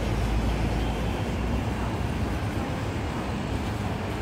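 Strong wind buffeting the microphone, a steady low rumble, over general street noise.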